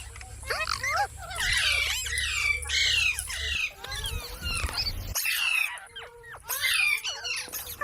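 Several pet parrots squawking and chattering in quick, overlapping calls that glide up and down in pitch. A low hum runs underneath for the first five seconds, then stops.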